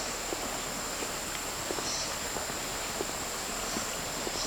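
Shallow water running over rocks in a steady, even rush, with a steady high-pitched hum over it and a few faint taps and short high chirps.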